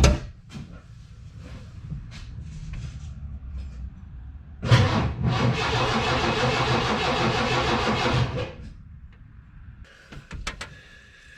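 Starter cranking the 1986 Mercury Cougar's 3.8L V6 for about four seconds, rapid even pulses, then stopping without the engine catching. The owner puts the no-start down to his fuel-pump bypass jumper being in the wrong connector. A sharp click at the very start and a few lighter clicks near the end.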